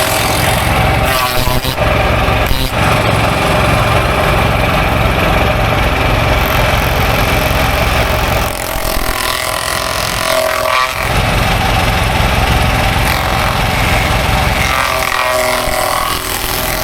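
An engine running steadily, its note changing for a couple of seconds about nine seconds in and again near the end.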